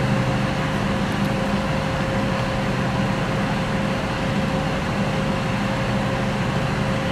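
A fire service vehicle's engine running steadily, a constant low drone with a steady higher hum over it.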